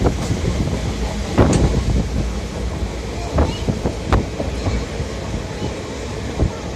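Train running on the rails: a steady low rumble with irregular sharp clacks and knocks from the wheels and carriages, the loudest a few seconds apart.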